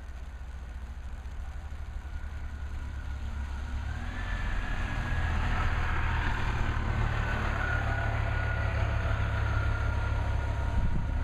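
Diesel engine of a 2003 Orion V 30-foot transit bus rumbling, growing louder about four seconds in, with a high whine over the rumble.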